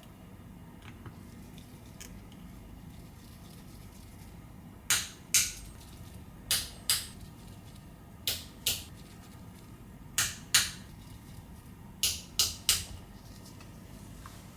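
Sharp little clicks of small parts being snapped into place on an iPhone 11 during reassembly. They come in pairs about half a second apart, four pairs in all, then three in quick succession near the end.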